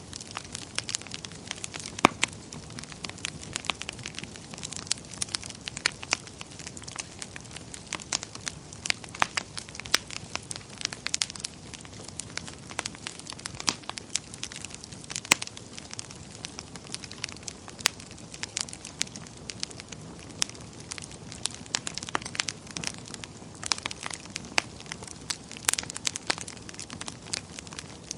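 Wood fire burning in a fireplace, crackling and popping irregularly over a soft steady hiss of flames.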